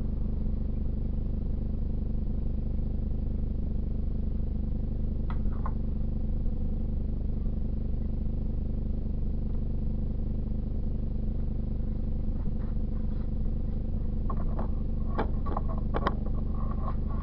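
A steady low mechanical hum, with light clicks and clinks from tools and parts being handled: a pair about five seconds in and a quick cluster near the end.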